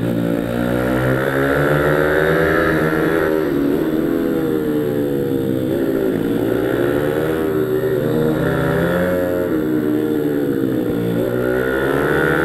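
Small-displacement pit bike engine, a minimotard on a track, revving up and falling back over and over. The pitch climbs under acceleration and drops off into the corners, several times in a row.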